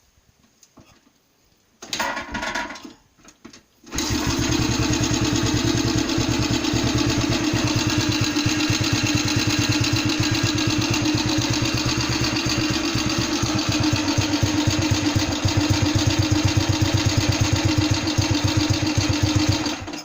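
Freshly rebuilt NSU Pretis 175 two-stroke single-cylinder engine being started: a brief sputter about two seconds in, then it catches at about four seconds and runs steadily with a fast even beat until it cuts off suddenly at the end.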